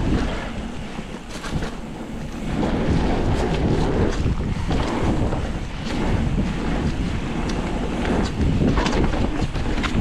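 Wind buffeting the microphone over the steady rumble and rattle of a mountain bike riding fast down a dirt trail, with scattered small clicks and knocks.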